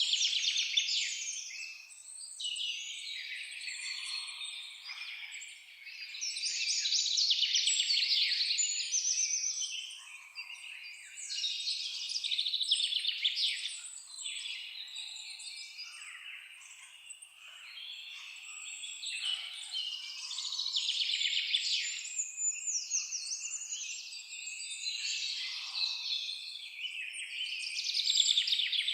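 Several songbirds singing at once, a dense chorus of high, fast trilling and chirping phrases that overlap and swell and fade every few seconds.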